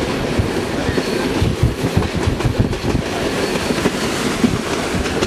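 Passenger train running: a steady low rumble of the carriage with many irregular low knocks from the wheels on the track.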